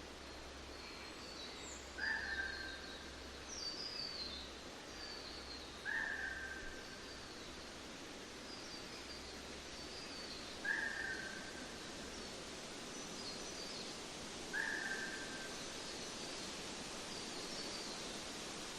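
Birds calling over a steady outdoor hiss. A short, slightly falling call repeats four times, about every four seconds, with fainter high chirps in between.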